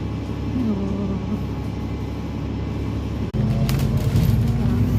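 Bus engine and road rumble heard from inside the cabin in stop-and-go traffic. It jumps louder about three seconds in, and a few sharp clicks follow.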